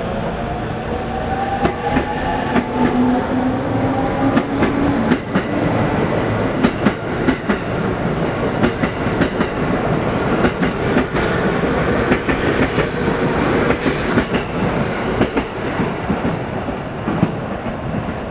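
Electric commuter train pulling out of the station past the platform. A motor whine rises in pitch over the first few seconds as it accelerates, then the wheels click over rail joints as the cars run by, growing a little fainter near the end.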